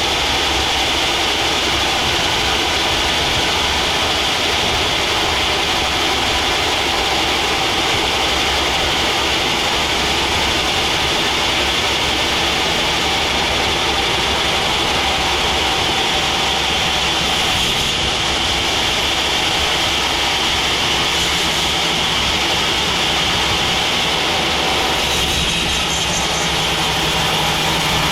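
Sawmill saw running steadily as it saws a teak log into boards: a constant loud mechanical drone with a high whine over it.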